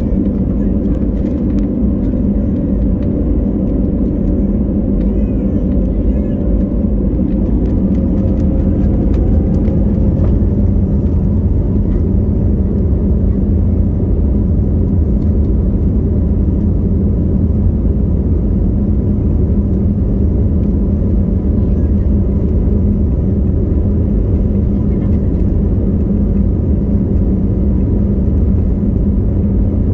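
Airliner cabin noise during takeoff or climb: the steady, loud drone of the engines and rushing air. A faint tone rises and then cuts off about ten seconds in.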